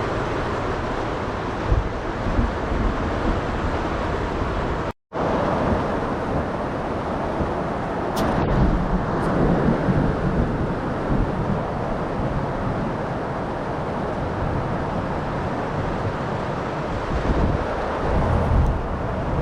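Heavy thunderstorm rain and gusting wind, the gusts buffeting the microphone in low rumbles.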